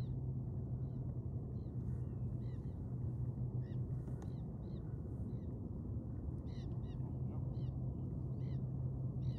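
Birds giving short, harsh calls over and over in loose runs, over a steady low hum.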